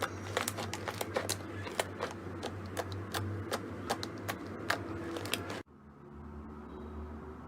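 Slime being worked, giving off a run of sharp, irregular clicks and pops several times a second; the sound cuts off abruptly about five and a half seconds in, leaving only a faint low hum.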